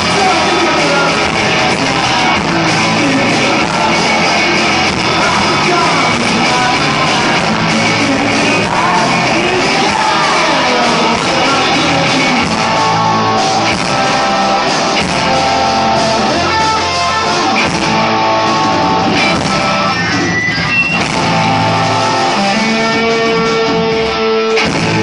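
Psychedelic punk rock band playing live at full volume: electric guitars and drums, with singing. In the last few seconds it settles into long held notes.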